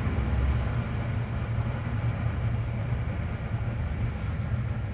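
Vehicles idling and creeping in a queue: a steady low engine rumble, with a few faint clicks near the end.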